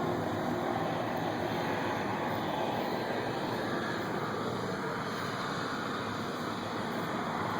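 A steady, even mechanical running noise with no clear pitch.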